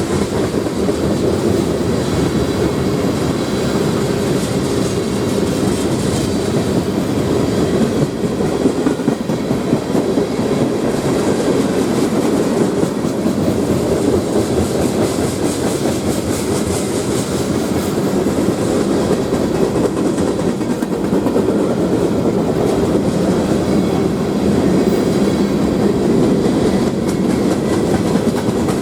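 CSX freight train rolling past, its cars' wheels clacking and rattling over the rails in a steady, loud run.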